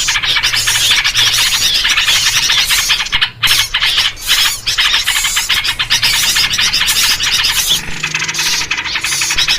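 A loud, dense clamour of many small birds chattering and scolding at once, a lure recording for trapping birds, with yellow-vented bulbul (trucuk) calls in the mix. It breaks off briefly about three seconds in.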